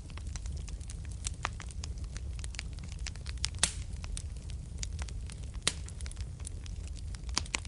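Wood fire burning in a fireplace: irregular crackling with sharp pops over a steady low rumble of the flames, and a few louder pops about halfway through, a couple of seconds later, and near the end.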